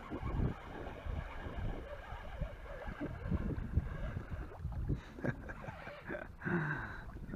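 A hooked fish being played and reeled in at the water's edge: irregular low buffeting and splashing of water, with wind on the microphone.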